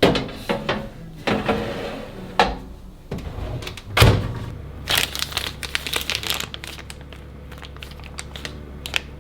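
Plastic packaging crinkling and rustling while groceries are handled, with irregular knocks of items being set down and one heavier thump about four seconds in. A steady low hum starts just after the thump.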